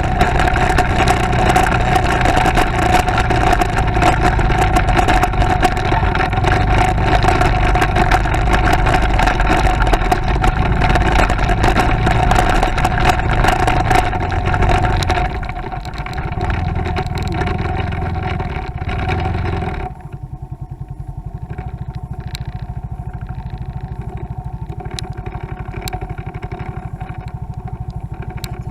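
Motorcycle engine running under way with road and wind noise, easing off about halfway through, then idling with an even low putter for the last several seconds.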